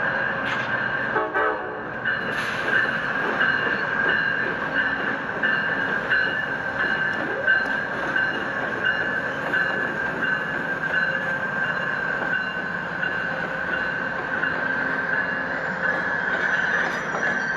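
Train running at the station with a steady mechanical rumble and a constant high whine over it.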